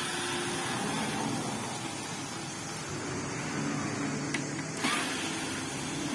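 Steady mechanical whirring from a running machine, with a sharp click about five seconds in.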